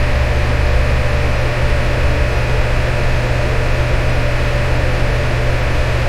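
Electric fan running steadily: an even rushing air noise with a low hum underneath, unchanging throughout.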